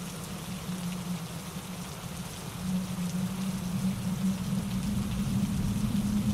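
Steady rain mixed with wind through pine trees and a mountain stream tumbling over granite rocks. A low rumble swells louder about halfway through.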